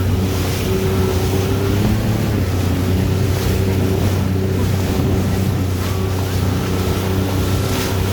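Jet ski engine running at a steady pitch while underway on the water, with wind blowing on the microphone.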